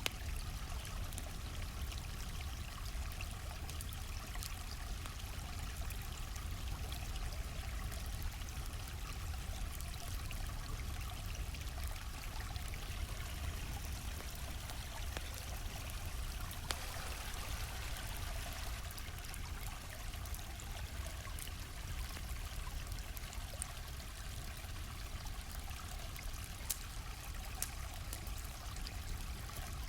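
A stream flowing steadily, with a few scattered sharp pops from a crackling wood campfire.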